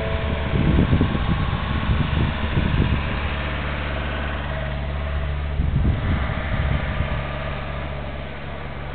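Airbus A330-200 jet engines running at idle while the aircraft taxis in to park: a steady low hum, with irregular low rumbles in the first few seconds and again about six seconds in.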